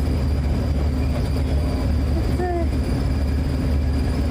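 Steady low rumble of a moving vehicle heard from inside the passenger cabin, with one brief short gliding high sound about two and a half seconds in.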